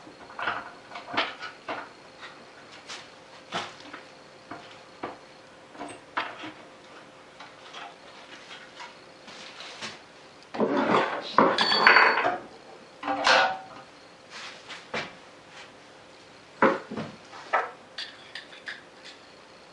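Scattered clinks and knocks of metal hardware and a plastic tray being handled and fitted, with a denser, louder burst of clattering about eleven seconds in.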